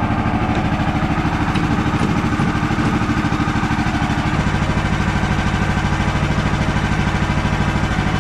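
Gasoline engine of a Woodland Mills portable band sawmill running steadily at speed with a fast, even pulse; the engine note changes about four seconds in.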